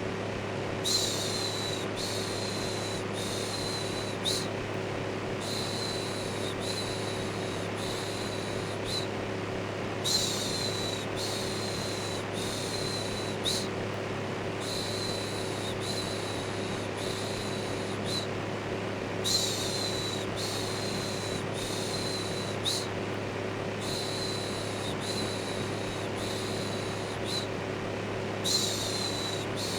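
Steady electric fan whir with a constant low hum, overlaid by a repeated human 'shhh' shushing, one shush about every second in runs of four with short pauses between runs. It is the kind of steady white noise used to calm a baby to sleep.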